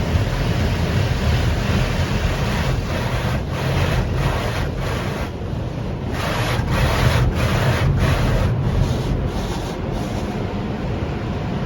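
Tunnel car wash working over a car, heard from inside it: a steady low rumble under a wash of spraying water and rubbing cloth, with the hiss pulsing at a regular beat about every half second through the middle.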